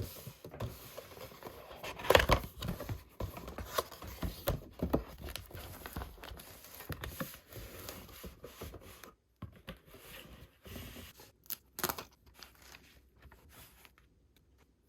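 Packaging being handled and torn: irregular crinkling, tearing and scraping that dies away near the end.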